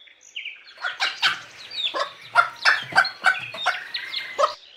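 Hen clucking: a quick run of about a dozen short clucks, starting about a second in.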